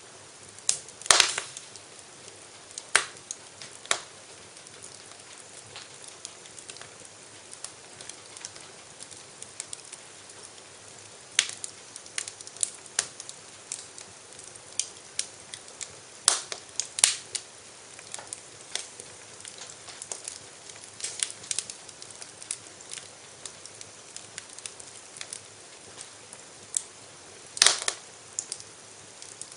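Wood fire in a fireplace crackling, with irregular sharp pops over a steady low hiss; the loudest pops come about a second in, around the middle and near the end.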